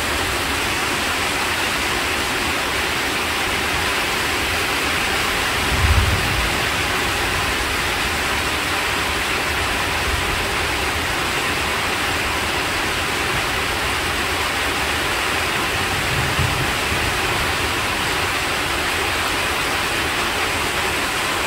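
Steady rain falling, an even hiss throughout. Two brief low thumps break through, the louder about six seconds in and a softer one later.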